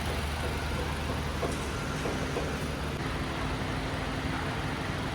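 2014 Toyota Camry engine idling steadily with a low, even hum.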